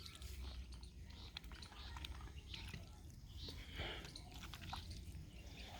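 Faint, scattered clicking of ducks pecking and eating wheat grains.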